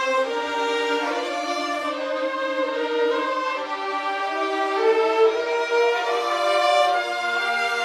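An ensemble of violins playing a melody in held bowed notes, the notes changing every half second to a second, with nothing sounding below the violins' lowest range.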